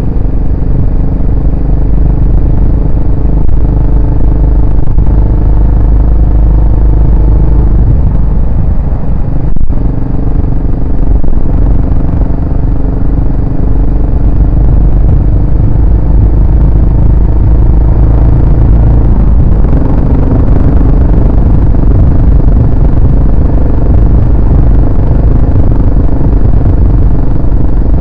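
Yamaha SR400's air-cooled single-cylinder four-stroke engine and exhaust running on the road at a steady speed. There is a brief dip with a click about ten seconds in, and the engine note shifts about twenty seconds in.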